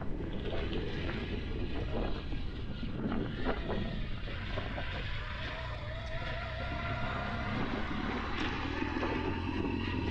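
BMW GS Adventure motorcycle's boxer-twin engine running steadily, a continuous low drone with a faint wavering whine in the middle.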